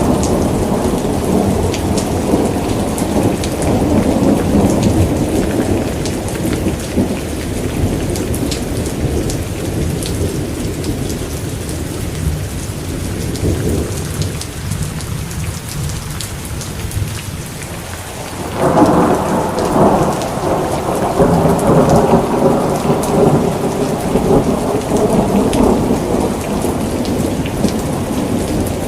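Steady heavy rain with rolling thunder. The rumble dies away through the middle, then a fresh peal of thunder breaks in sharply about two-thirds of the way through and keeps rumbling.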